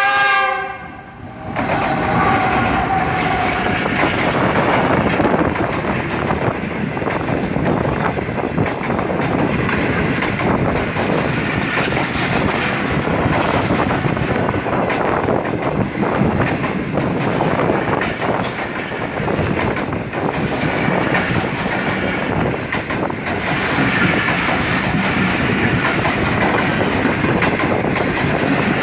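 A locomotive horn blast ends about a second in. Then the Karakoram Express passenger train runs past, its wheels clattering over the rail joints through a steady rumble.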